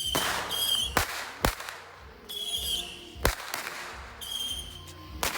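Consumer fireworks going off: about five sharp bangs at uneven intervals, with a short high chirping tone repeating between them.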